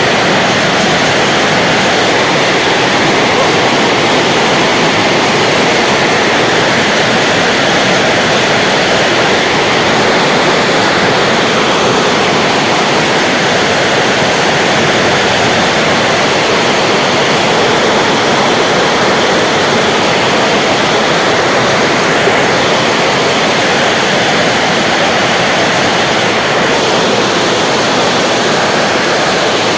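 Hailstorm: hail and heavy rain falling, a loud, dense, steady rush with no single impacts standing out.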